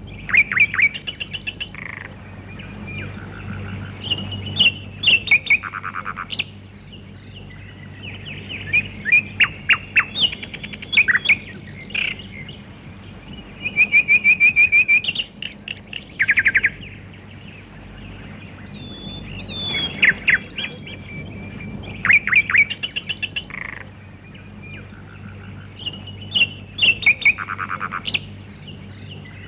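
Songbirds singing: short phrases of high chirps and quick trills every few seconds, over a steady low hum.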